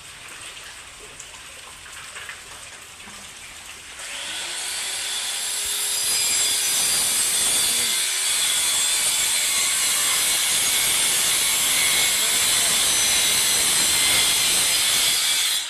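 Heavy monsoon rain pouring down as a steady hiss. It grows much louder about four seconds in and cuts off abruptly at the end.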